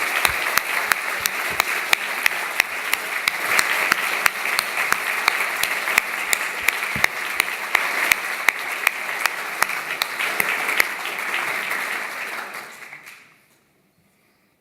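Audience applauding, with sharp individual claps standing out close by; the applause fades away about thirteen seconds in.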